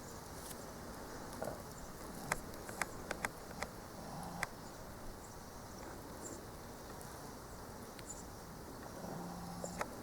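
Faint outdoor insect sound, steady throughout, with a few light sharp clicks between about two and four and a half seconds in.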